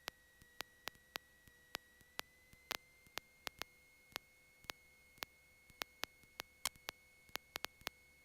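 Faint electrical noise on a Cessna 172's intercom audio feed: irregular sharp clicks, two or three a second, over a thin steady whine that creeps slightly up in pitch about two seconds in.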